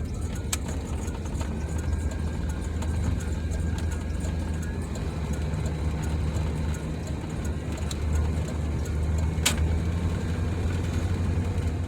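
Dodge van engine running steadily under way, heard from inside the cabin, with a low even hum over road noise while driving on a snow-covered road. Faint regular ticking runs through it and a sharp click comes about nine and a half seconds in.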